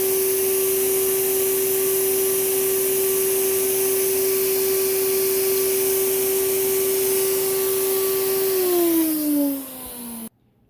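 Hoover Celebrity vacuum motor running steadily, a strong whine over a rush of air. About eight and a half seconds in the motor winds down, its whine falling in pitch, and then the sound cuts off suddenly.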